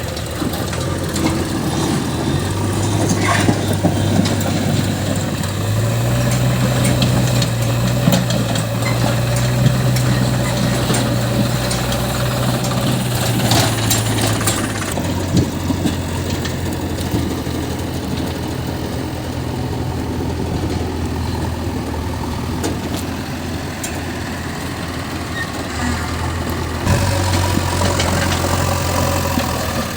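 Diesel engine of a farm tractor or backhoe loader running steadily, its speed picking up about six seconds in, dropping back about halfway through and picking up again near the end, with a couple of short knocks.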